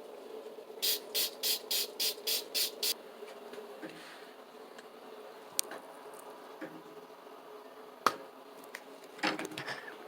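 Seven quick, evenly spaced hisses of air, about three a second, over a faint steady hum. A couple of sharp clicks and a brief rustle follow near the end.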